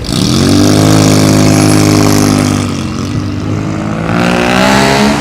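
Car engine revved twice: the first rev climbs quickly, holds high for a couple of seconds and drops back, then a second rev rises near the end.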